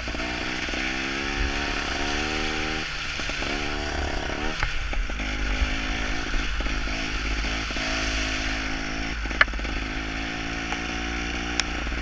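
Gas Gas two-stroke trials motorcycle engine revving up and down as it is ridden, its pitch rising and dropping with the throttle, over a steady hiss. A couple of sharp clicks come near the end.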